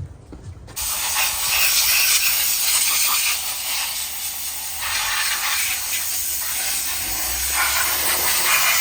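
Loud steady hiss of a pressurised spray or air jet, starting about a second in, used to clean down engine parts.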